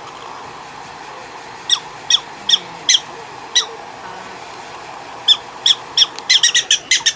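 Prairie dog giving a string of short, high-pitched chirps, a few spaced apart at first, then a quick run of them near the end, over a steady hiss.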